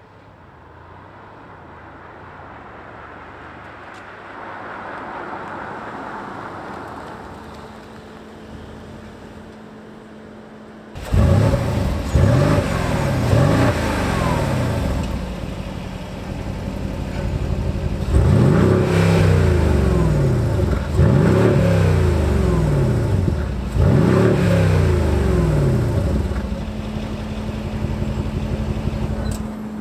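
Mercedes-AMG GLC63 S 4.0-litre twin-turbo V8 engine revved in a series of blips, each rising and falling in pitch, starting suddenly about a third of the way in after a quieter steady stretch. It settles back to a steady idle near the end.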